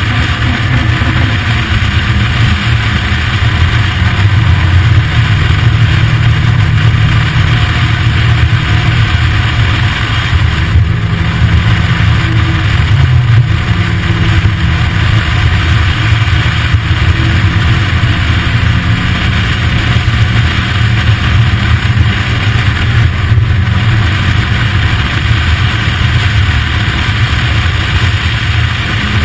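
Open-top sports car's engine running steadily under load on a climb, its pitch shifting only slightly, with wind and road noise rushing through the open cockpit.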